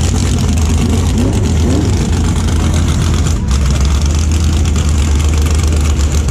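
A race car engine idling steadily close by: a constant low, loud drone that gets a little stronger about three and a half seconds in.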